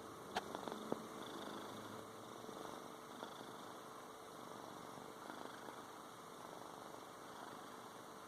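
A cat purring steadily, with a few sharp clicks within the first second.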